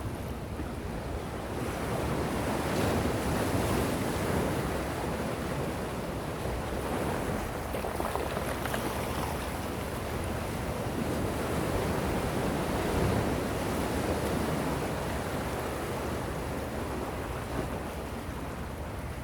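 Gentle ocean waves washing in, a steady wash of surf that swells and eases twice, with some wind noise on the microphone.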